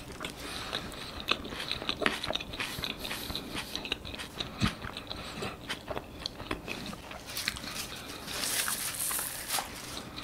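Close-miked chewing of a mouthful of avocado toast with a fried egg: irregular wet clicks and crunches of the toasted bread. A short hiss comes near the end.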